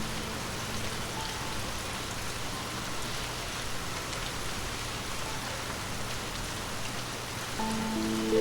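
Steady rain falling, an even hiss of drops. Soft sustained music notes come back in under the rain near the end.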